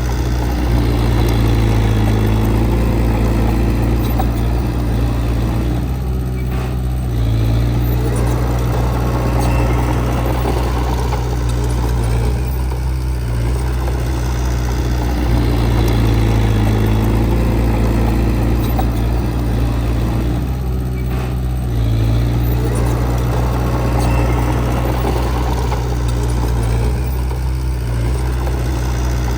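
Heavy earthmoving machine's diesel engine running steadily, its note and load shifting about every seven seconds.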